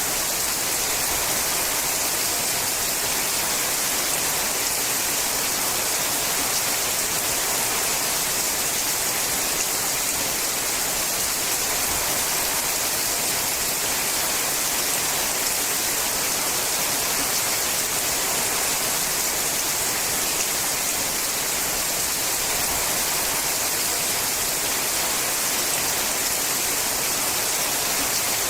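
Steady heavy rain falling on a sheet-metal roof, an even hiss with no let-up.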